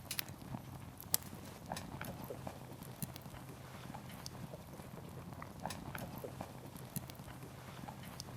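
Wood campfire crackling: irregular pops and snaps from burning firewood over a steady low rumble of the flames, with one sharper snap about a second in.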